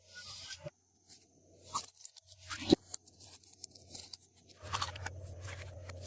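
Close-up handling of slime and its mix-ins: irregular short crunches, crackles and scrapes. A low steady hum joins in about two-thirds of the way through.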